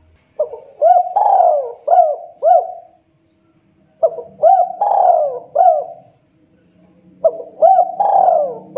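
Spotted dove (tekukur) cooing its phrased song, three times: each phrase is a quick run of four or five rising-and-falling coo notes. This is the dove's call played as a lure sound to draw wild doves.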